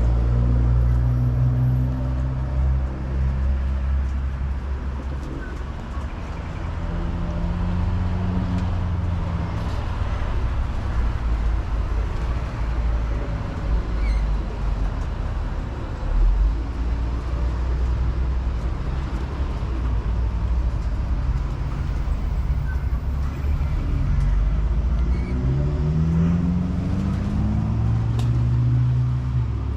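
Road traffic outdoors: a steady low rumble, with vehicle engines humming past a few times. The engine hum rises and falls in pitch near the end.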